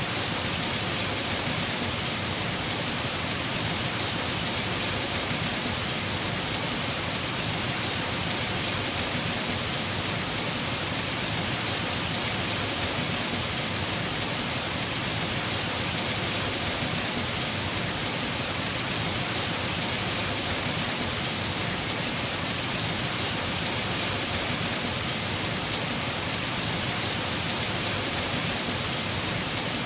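Heavy rain falling steadily on a house roof, an even, unbroken hiss.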